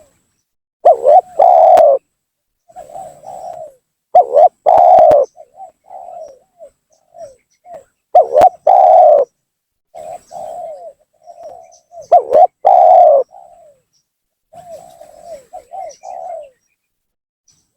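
Spotted dove (tekukur) cooing, a loud phrase about every four seconds with softer coos between. This is the territorial lure call used to draw down and provoke rival doves.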